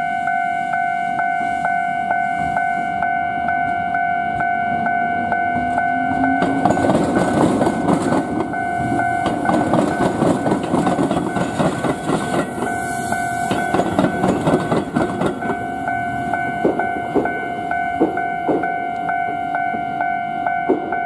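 A railway level-crossing alarm rings steadily on two tones with a regular beat. About six seconds in, an orange Iyotetsu 700-series suburban train rolls over the diamond crossing with the tram line, and its wheels clatter over the crossing's rail joints. The clatter thins out to a few single wheel knocks near the end.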